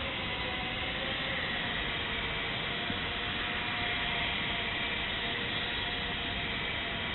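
Tiny electric motor and propeller of a Kyosho Minium Cessna 210 micro RC plane whining faintly in flight, its pitch wavering slightly, under a steady hiss.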